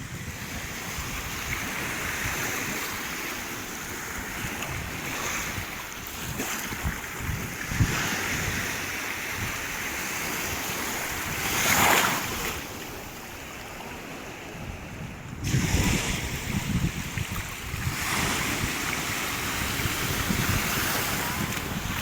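Sea waves washing ashore, with wind buffeting the microphone; louder surges about 12 and 16 seconds in.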